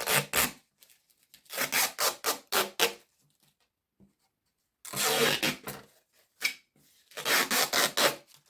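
Clear plastic window bird feeder being handled, plastic rubbing and scraping in four clusters of short rasping strokes.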